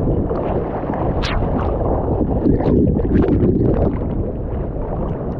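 Ocean surf water churning and sloshing around a swimmer's action camera, a steady muffled rush, with a sharper splash about a second in.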